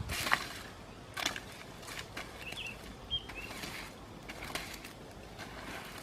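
Scattered rustles and knocks, the loudest right at the start and about a second in, with a few short bird chirps in the middle.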